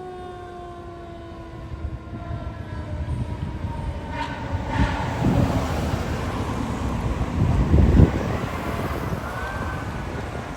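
A Federal Q mechanical siren on a fire engine winding down as a slowly falling wail, then a loud, heavy rumble from the fire engine as it pulls out and passes, swelling to peaks about halfway through and again about two-thirds of the way in.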